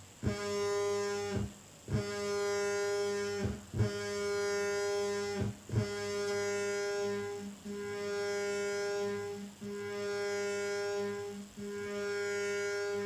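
Future Sound Systems Brunswick DIY analog synthesizer: its pulse oscillator runs through the filter as a steady, buzzy, single-pitched tone. The tone cuts out briefly with a click about every two seconds, then carries on.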